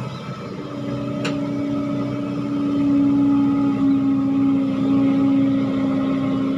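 Heavy diesel engine running steadily, growing louder about a second in as it comes under load, with one sharp click near the start.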